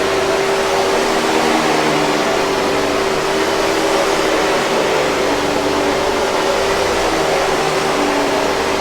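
Hoover 5000 Series canister vacuum cleaner running steadily: an even rush of air with a steady motor whine.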